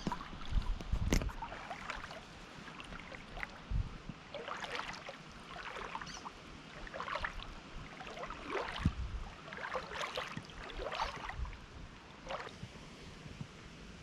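Water lapping and splashing in small irregular slaps, with gusts of wind buffeting the microphone near the start and a couple of times later.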